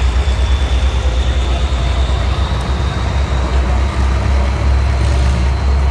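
Antique farm tractor engine running hard under load while pulling a sled, a loud, fast-pulsing low rumble.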